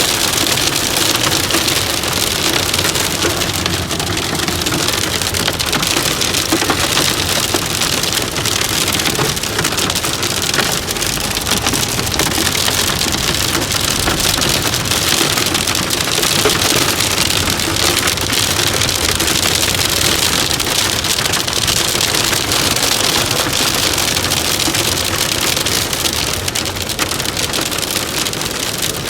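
Heavy downpour: rain pelting steadily and loudly, a dense patter of drops striking a hard surface.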